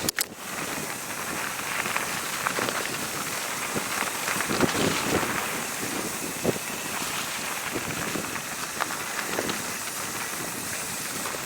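Mountain bike rolling down a dirt trail: a steady crackle of tyres on dirt and gravel with wind noise, broken by many short knocks and rattles as the bike goes over bumps.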